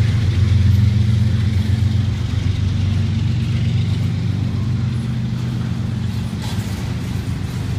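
Freight train of double-stack intermodal well cars rolling past close by, its steel wheels on the rails giving a steady, loud, low rumble.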